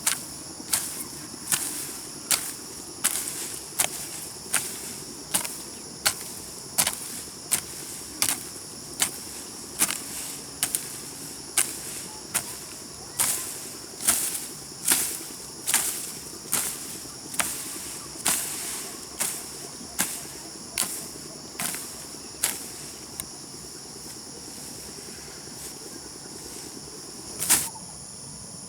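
Garden hoe chopping into grassy soil in a steady rhythm, a bit faster than one stroke a second, stopping about three-quarters of the way through, with one last stroke near the end. Insects keep up a steady high-pitched buzzing behind it.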